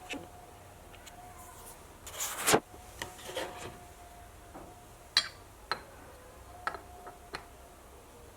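Hand work on small motorcycle engine-cover parts and tools: a brief rubbing scrape about two seconds in, then a few light clicks of small hard parts being set down or fitted.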